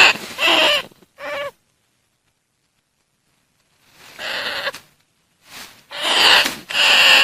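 Bandicoot rat lure call: short, harsh, pitched calls in quick runs. A few come near the start, then about two and a half seconds of dead silence, then the calls resume and run close together toward the end.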